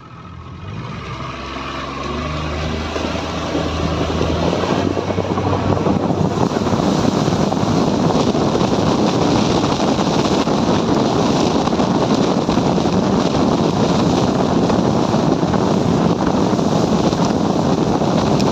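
A small boat's engine picking up speed, its hum rising over the first few seconds, then a steady loud rush of water and wind on the microphone as the boat runs along.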